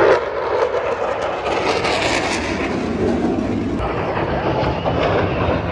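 F-16 Fighting Falcon jets flying past, a steady rushing jet-engine noise.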